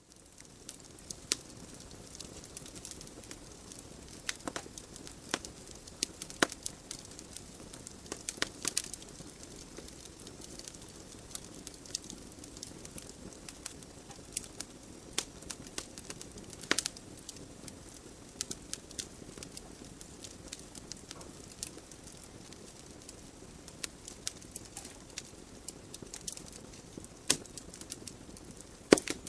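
Wood fire burning in a fireplace: irregular sharp crackles and pops from the logs over a steady low hiss of the flames, with one louder pop near the end.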